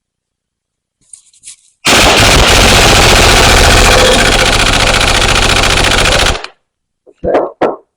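Impact wrench hammering on the bolts of a hydraulic vane pump in one long rapid burst of about four and a half seconds, which cuts off sharply. A few separate knocks follow near the end.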